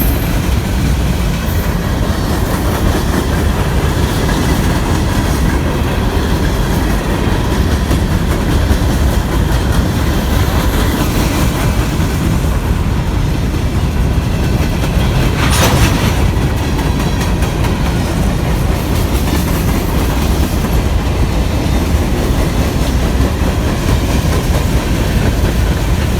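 Norfolk Southern coal train's freight cars rolling past at speed: a steady, loud rumble with the clickety-clack of wheels over the rails. A brief sharp sound cuts through about sixteen seconds in.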